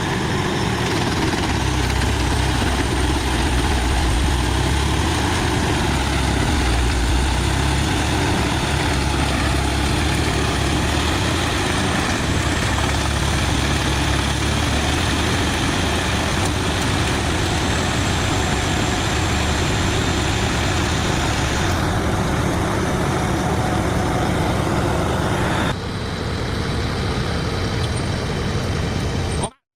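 Large diesel-powered drum wood chipper running steadily under load: a deep engine drone under a constant dense grinding and shredding noise. About three quarters of the way through, the sound changes abruptly and drops slightly in level. It cuts out briefly near the end.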